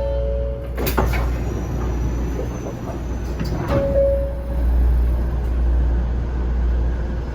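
Low steady rumble of a Shinkansen-type train, with two sharp clunks about three seconds apart and a short single-pitched tone just after the second.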